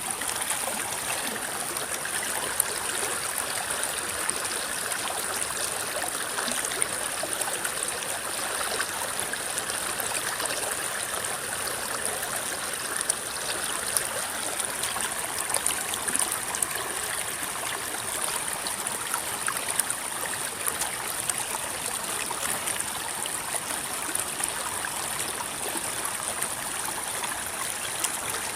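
River water flowing and rippling steadily, with small splashes and gurgles scattered through it.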